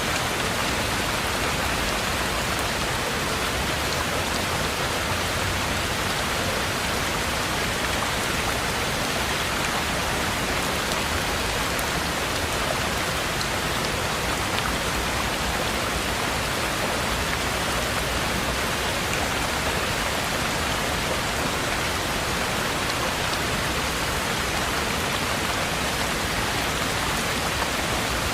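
Heavy rain falling steadily, an even dense hiss of rain on a treehouse cabin's roof and surroundings with no pauses or single loud drops.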